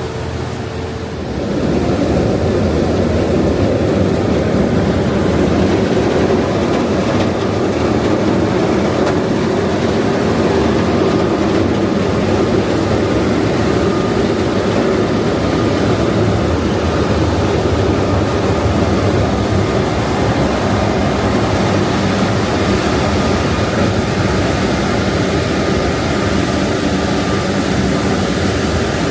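Uber Boat river catamaran's engines running with a steady drone, growing louder about a second in.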